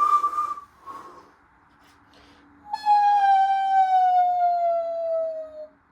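Washing machine motor whining with a loud, stacked tone that slides steadily down in pitch for about three seconds before fading out, the motor and drum coasting down from a high spin. A faint steady low hum runs underneath, and a brief high wavering tone sounds right at the start.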